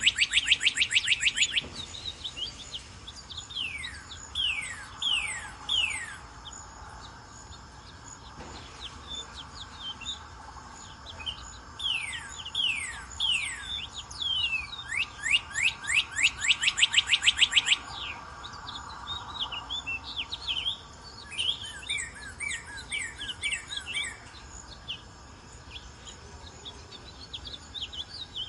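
Northern cardinal singing: phrases of clear whistles that slide downward, some slow and spaced, others fast runs of quickly repeated notes, one near the start and another about two-thirds of the way through. Fainter high chirping runs behind them.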